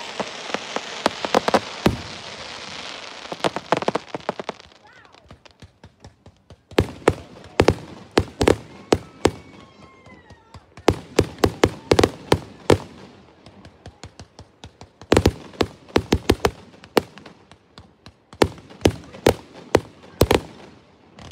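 Fireworks display: a dense crackling for the first four seconds or so, then runs of sharp pops and bangs from bursting shells, coming in quick clusters every second or two.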